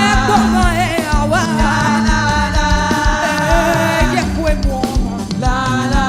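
Upbeat live praise music with a held, melodic lead line over a steady bass and regular drum beat.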